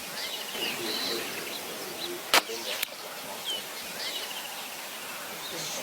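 Small birds chirping repeatedly against a steady outdoor hiss, with one sharp click about two and a half seconds in.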